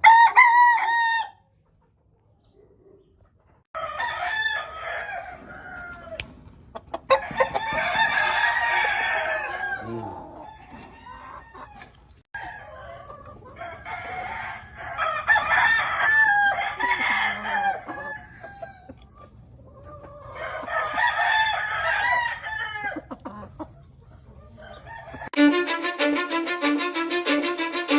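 Gamefowl roosters crowing over and over, about half a dozen long crows with short pauses between them. Background music with a bowed string comes in near the end.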